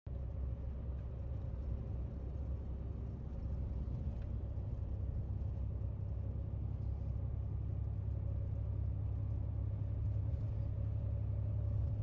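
A steady low rumble with a faint steady hum above it.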